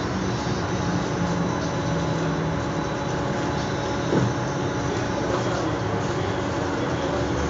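Steady running noise heard inside an electric commuter train carriage as it moves, with a steady low hum and a single short knock about four seconds in.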